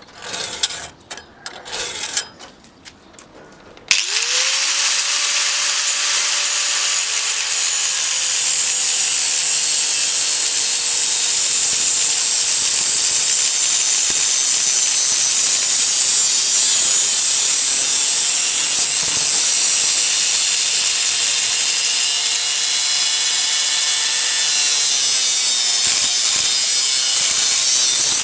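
Light knocks and handling clicks, then about four seconds in a handheld power tool starts and runs steadily with a whine and a loud hiss, its pitch sagging slightly as it works. It cuts off abruptly at the very end.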